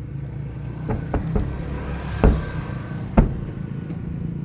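Aerial fireworks shells bursting: a few smaller pops in the first second and a half, then two loud booms about a second apart, over a steady low rumble.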